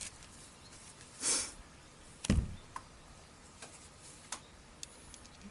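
Work handling noises: a brief rustle about a second in, a knock a little over two seconds in, then a few light ticks.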